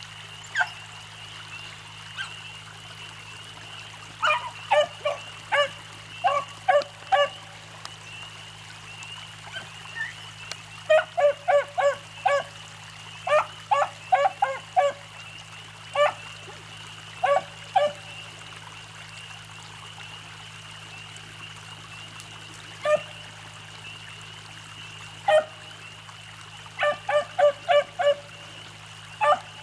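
Pack of beagles baying on a rabbit's trail, short sharp barks in quick clusters that come and go, over the steady trickle of running creek water.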